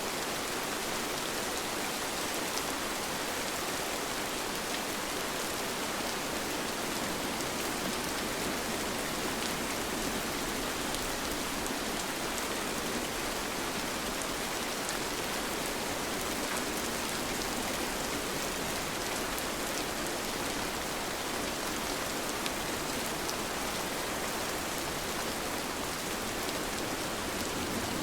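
Steady rain falling, an even hiss with fine drop patter, with no thunder.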